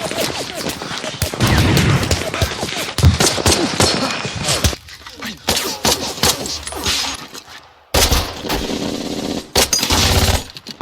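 Movie battle soundtrack of World War II small arms: rapid overlapping rifle and machine-gun fire. The firing thins out about halfway, then breaks off sharply just before eight seconds in, where a cut leads into another stretch of shots.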